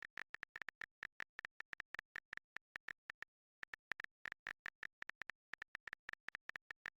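iPhone-style keyboard click sounds from typing on a phone's on-screen keyboard: a quick, irregular run of short clicks, about five a second, with a brief pause about a third of the way through.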